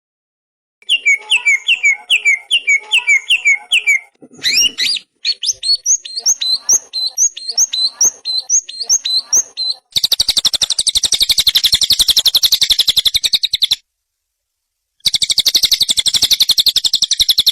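Recorded songbird song spliced together: a run of sharp repeated chirping notes, about three a second, then a very fast, high, buzzing trill that stops abruptly and starts again about a second later.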